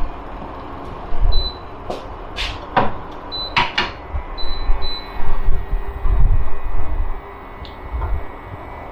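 Gusts of wind buffeting the microphone in uneven rumbling bursts, strongest in the second half. A few sharp knocks and clatters come about two to four seconds in.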